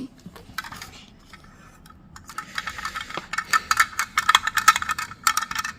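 Rattling and rapid clicking of hard objects being handled: a short rattle about half a second in, then a long dense burst of clicks and rattles from about two seconds until near the end.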